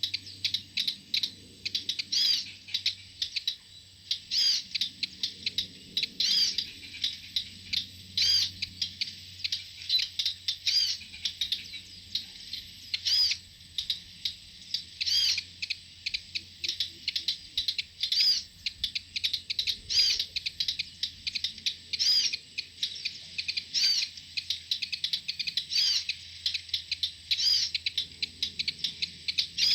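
Hill prinias (ciblek gunung) calling: a fast, continuous high chirping with a louder arched note repeated about every two seconds, given while the birds are being lured with an owl decoy.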